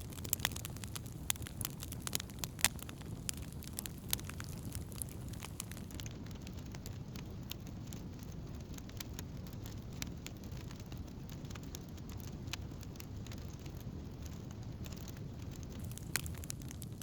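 Wood campfire burning: sharp crackles and pops over a low steady rumble, the crackles thickest in the first few seconds and again near the end.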